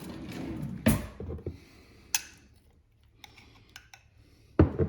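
Kitchen handling sounds while a burger is put together: a sharp click about a second in, scattered light ticks, then two louder knocks close together near the end.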